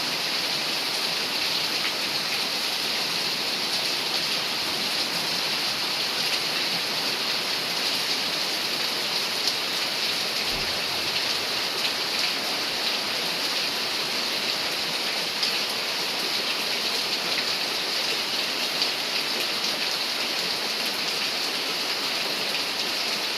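Steady rain-like hiss, brightest in the high range, with faint scattered ticks; no song or voice stands out.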